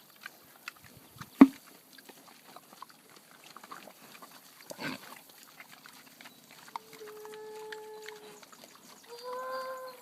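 Pigs and piglets moving through brush with scattered rustling and crackling. A sharp, loud knock comes about a second and a half in and a short grunting burst near the middle, then two drawn-out animal calls over the last three seconds.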